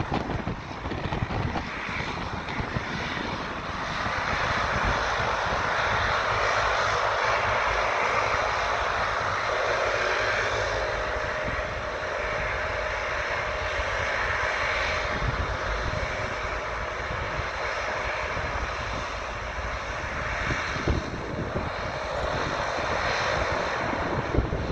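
Fixed-wing airplane's engines running steadily, with a steady hum joining about ten seconds in, and low wind buffeting on the microphone.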